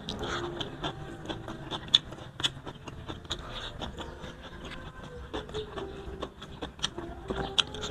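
Close-miked chewing and lip-smacking as a man eats grilled carp and chopped tomato and onion with his fingers. The sound is a run of irregular wet mouth clicks and smacks.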